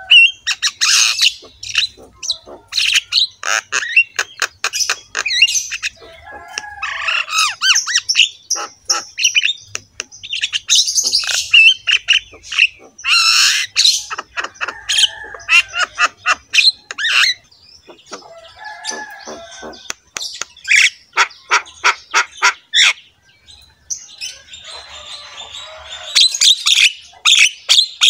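Birds calling loudly with harsh squawks and quick chirps, in bouts that come and go.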